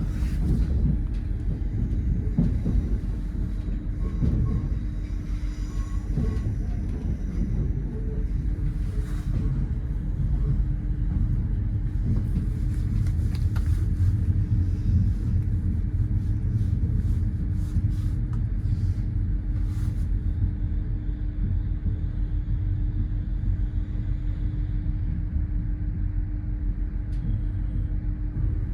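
Train rumbling steadily with a constant low hum, with scattered clicks between about 9 and 20 seconds in.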